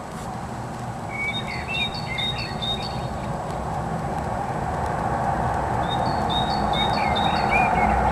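Small birds chirping in two runs of short repeated notes, about a second in and again near the end, over a steady rushing background that slowly grows louder.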